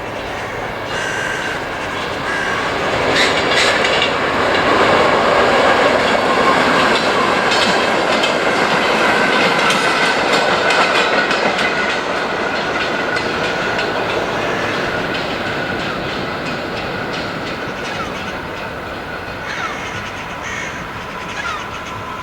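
A train running past on the tracks, its wheels clicking over the rail joints, growing louder over the first few seconds and then slowly fading, with a steady high whine above the rumble.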